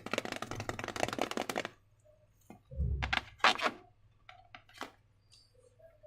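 Slime being handled, with sticky crackling for about a second and a half. After a pause comes a soft thud with a few more crackles and clicks, then scattered faint ticks.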